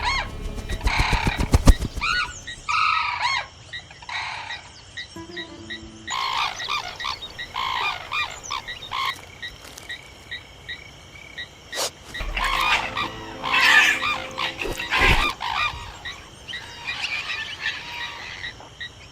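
Outdoor animal chorus: many short calls and croaks, frog-like, mixed with bird calls, coming in bunches with faint steady chirping behind them.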